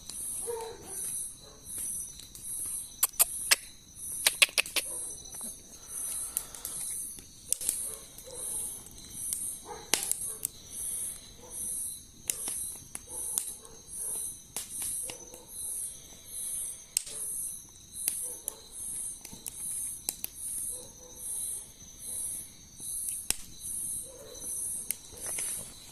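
Night insects chirping: a high pulse repeating evenly a bit more than once a second over a steady high trill. Campfire wood crackles and pops over it, with a cluster of sharp pops about three to five seconds in.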